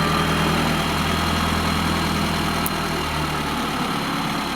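Diesel engine of an off-road vehicle idling steadily, easing slightly after about three seconds.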